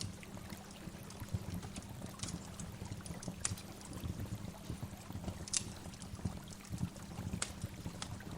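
Waterfall: a steady rush of falling water, heaviest in the low end, with scattered brief high-pitched ticks.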